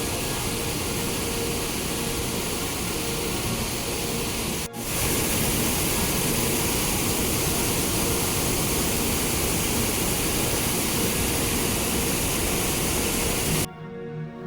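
Steady rushing water of a large waterfall, the Kaveri river pouring over Hogenakkal Falls, with a brief break about five seconds in. Near the end it cuts off and music begins.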